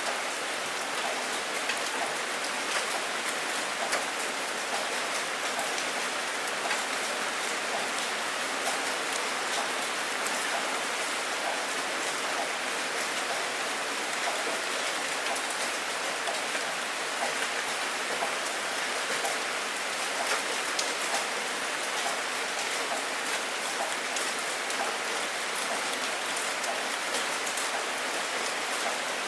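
Steady rain falling on a hard surface: an even hiss with scattered individual drops ticking. No thunder.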